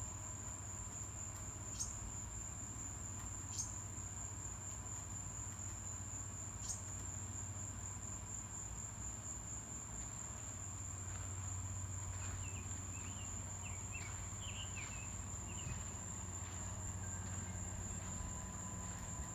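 Insects trilling in one steady, high, unbroken note, with a few short chirps in the first several seconds and faint bird-like warbling notes about two-thirds of the way through.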